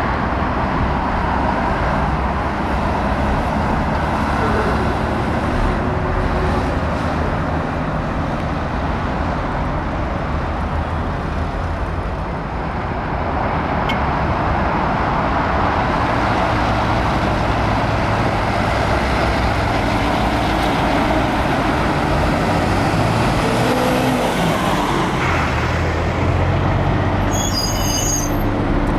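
Heavy diesel trucks running and driving past, a steady engine and road noise throughout, with a brief high-pitched squeal near the end.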